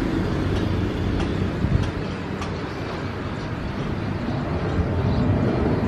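Steady low engine rumble, dipping a little about two seconds in and building again toward the end.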